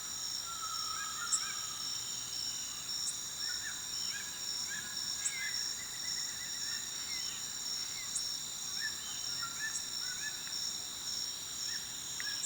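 Nature ambience: a steady high-pitched insect chorus, like crickets, with scattered short bird chirps over it.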